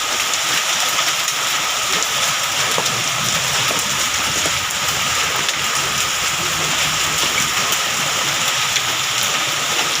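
Heavy rain mixed with hail pelting down: a dense, steady hiss.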